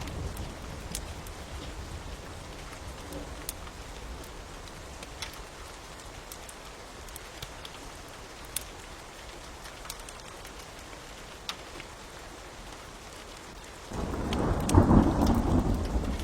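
Steady rain with a fire crackling in sharp, scattered pops. Thunder rumbles in suddenly near the end and is the loudest sound.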